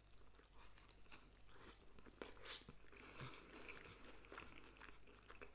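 A person chewing a mouthful of pizza: faint, irregular crunching and mouth clicks.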